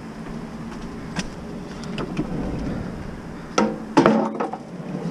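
A vehicle engine idling with a low steady hum, with a few light clicks and then two louder knocks and clatter about three and a half and four seconds in.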